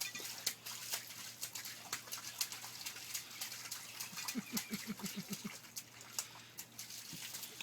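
Splashing and scattered patters in a muddy puddle, with a quick run of about eight short, low grunts about four and a half seconds in.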